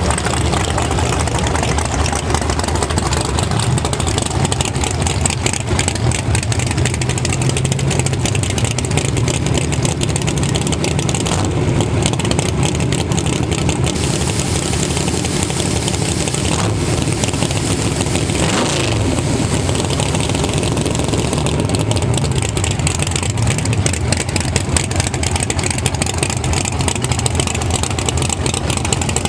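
Drag-racing engine idling with a choppy, rapid ticking, its pitch rising and falling slightly now and then.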